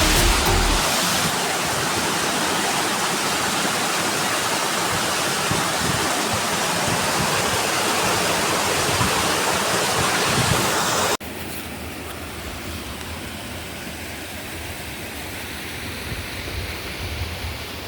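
Rushing water of a mountain river and waterfall, a steady even rush; about eleven seconds in it cuts abruptly to a quieter, softer flow.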